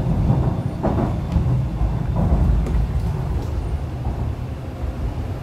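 Interior running noise of an MTR East Rail Line R-Train (Hyundai Rotem electric multiple unit) moving along the track, heard inside the passenger car: a steady low rumble of wheels on rail, with a few brief knocks in the first couple of seconds.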